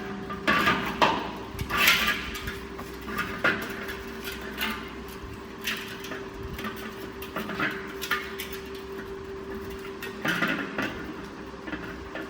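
Metal tools and engine parts clinking, knocking and scraping at irregular intervals, over a steady hum.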